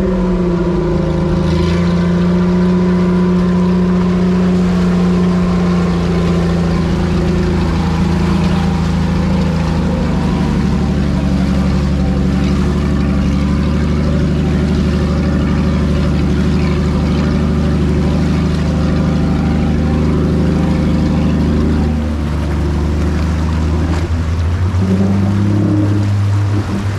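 Jeep engine running at steady revs, a constant drone that changes pitch and pattern about 22 seconds in.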